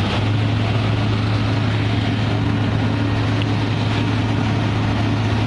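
An engine running steadily at a constant speed, an even low drone over a noisy background.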